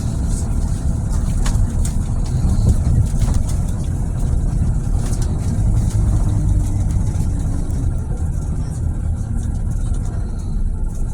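A Scania Scala city bus under way: a steady low rumble of diesel engine and road noise, with a few short clicks or rattles.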